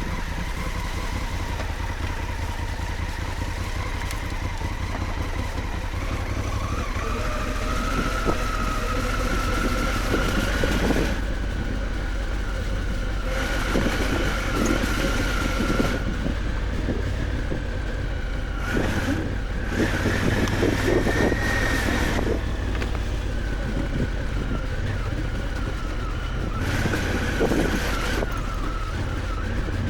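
Honda Africa Twin adventure motorcycle running as it is ridden off-road, with a steady low rumble and an engine note that rises a little about seven seconds in and then wavers up and down.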